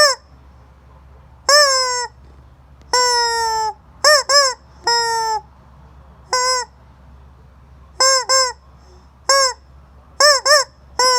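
Rubber chicken squeaky toy squeezed over and over, giving loud honking squawks that rise and then droop in pitch. Some squeezes are short and come in quick pairs, others are held for most of a second.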